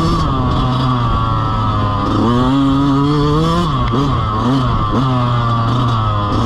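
Dirt bike engine running under load, its revs climbing and then dropping back several times as the rider opens the throttle and shifts.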